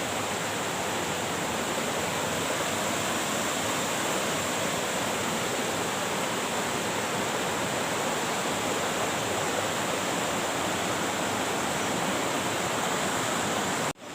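Waterfall: steady, even noise of falling water.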